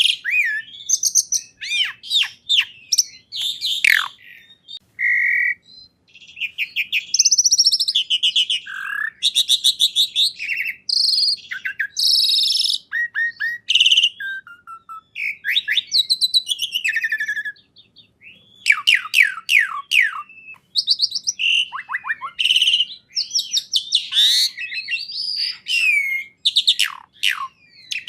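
A songbird singing a long, varied song of rapid trills, downward-gliding whistles and sharp chirps, with only brief pauses.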